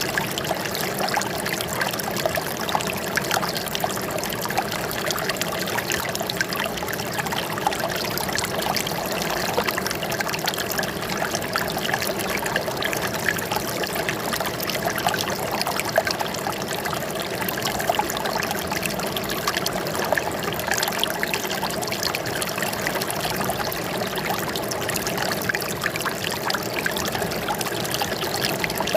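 Flowing water trickling and splashing steadily, a dense, even patter like a small stream or cascade.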